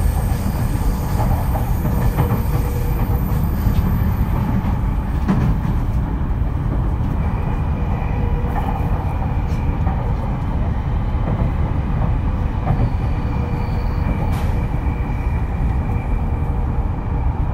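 JR East E231 series commuter train running, heard inside motor car MoHa E230: a steady rumble of wheels on rail with a faint, even whine from the traction equipment.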